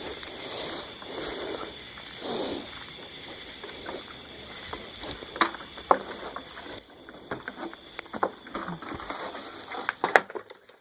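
Insects chirring steadily in a high-pitched, unbroken drone, with soft rustling and a few sharp clicks, the loudest of them near the end.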